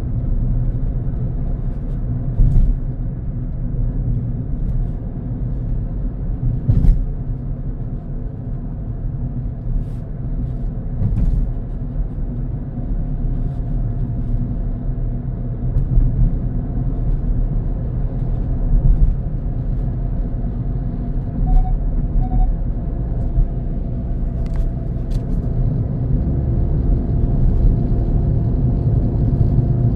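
A vehicle driving along a road: steady low engine and road rumble, with occasional short sharp knocks, and a steady hum that comes in near the end.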